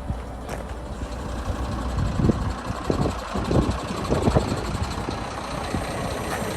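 Mercedes-Benz Axor truck's diesel engine running, getting louder from about two seconds in with a few uneven surges before settling back to a steady run.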